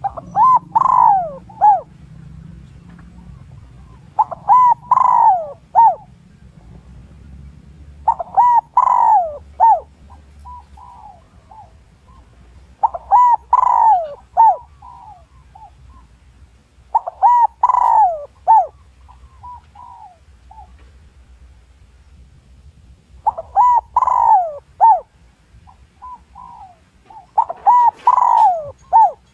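Spotted dove cooing, a lure call used to provoke wild males: seven phrases of several falling coos, one about every four seconds.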